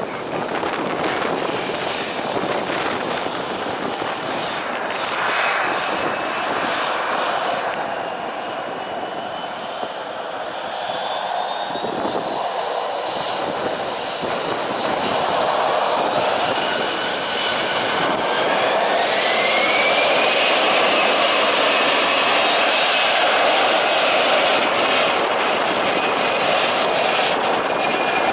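Jet airliner engines running with a loud roar and a whine. About halfway through, the whine rises in pitch and the sound grows louder, then it holds steady.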